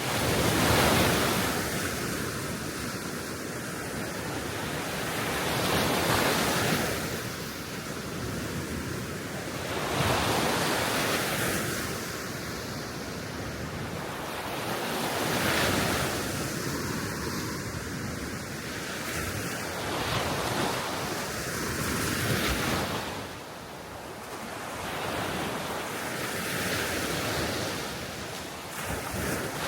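Small waves on a calm Baltic Sea shore, each swelling and breaking about every four to six seconds, with wind blowing over the microphone beneath them.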